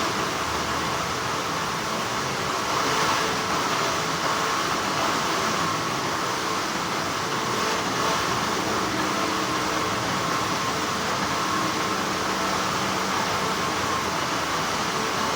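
Textile factory machinery running with a steady, even hum that does not change.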